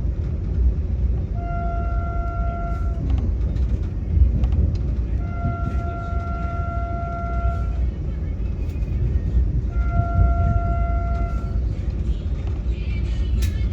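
Train running with a steady low rumble, while a single-pitched tone sounds three times, each lasting one and a half to two and a half seconds, about four seconds apart.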